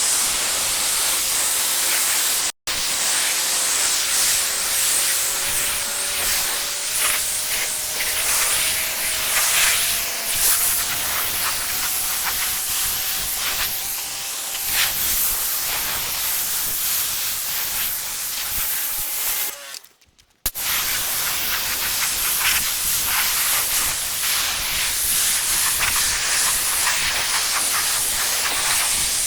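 Strong jet of water spraying into a plastic wash bucket to fill it with shampoo solution: a loud steady hiss and splash, with a faint tone that slowly rises in pitch as the bucket fills. It breaks off twice for a moment.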